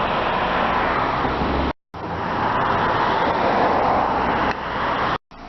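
Steady motor-vehicle noise, like a running car or road traffic, that cuts out abruptly to silence twice.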